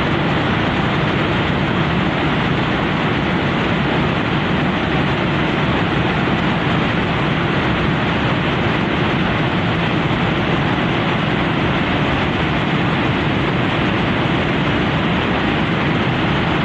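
Steady, loud rush of floodwater from a river in spate, swollen by a dam burst upstream.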